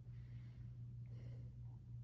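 Quiet library room tone with a steady low hum. About a second in there is a faint, short scratch, the kind an Apple Pencil makes writing on an iPad screen.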